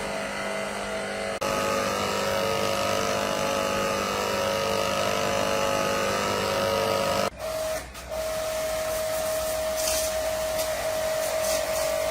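Repaired compressor running steadily on a test run, a motor hum with several steady tones. The sound jumps abruptly about a second and a half in and again about seven seconds in.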